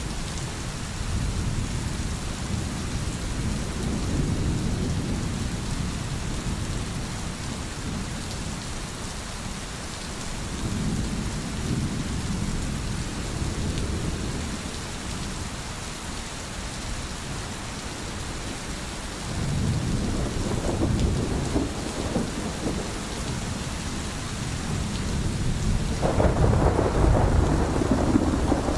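Steady heavy rain with low rolling thunder swelling and fading several times, the loudest roll starting near the end.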